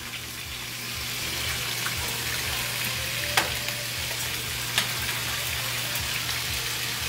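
Steady sizzle of food frying in hot oil in a pan, with a couple of light ticks.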